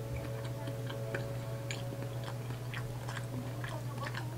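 Close-miked mouth sounds of a person chewing raw fish sashimi: small wet clicks and smacks scattered throughout, over a steady low hum.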